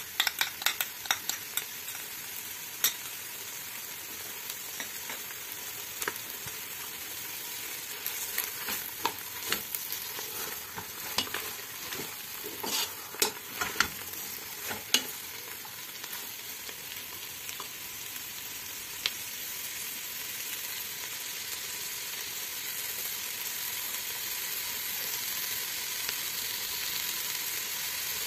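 Fried herbs and meat sizzling in a pot while a wooden spatula stirs and scrapes, with frequent clicks and knocks against the pot through roughly the first half; after that only the steady sizzle, growing a little louder near the end.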